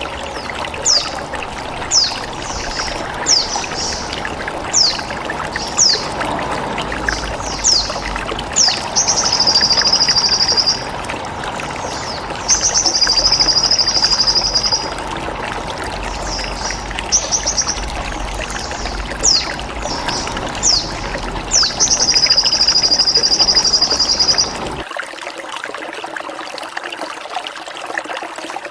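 Recorded songbird calls, meant as sogon training song: repeated short, sharp downward chirps about once a second, broken by three long high trills of about two seconds each. Underneath is a steady trickle of running water, whose low rumble drops out near the end.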